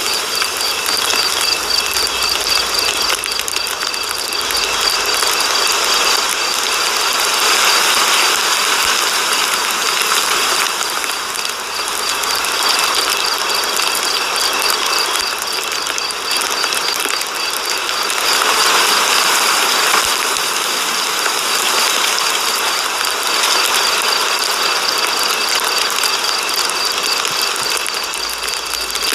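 Ratchet wrench clicking rapidly and steadily as its pawl runs over the gear, with continuous metallic rasping throughout.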